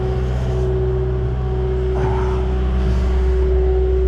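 Diesel engine of a compact construction machine running steadily, a low drone with a steady hum above it.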